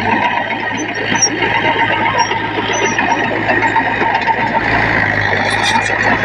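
Heavy earth-moving machinery running steadily: a diesel engine from a bulldozer or dump truck working the fill.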